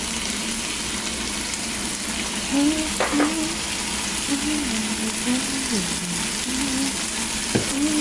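Ackee, mushrooms and peppers sizzling steadily in a nonstick frying pan as the cook warms the canned ackee through, stirred with a wooden spatula, with a couple of light taps.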